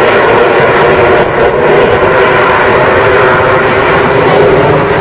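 Loud, steady engine noise from Blue Angels jets flying overhead at an air show.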